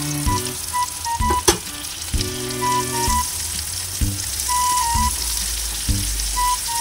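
Pieces of food deep-frying in a pan of hot oil, a steady sizzling hiss as metal tongs turn them, with one sharp click about a second and a half in. Background music plays with it.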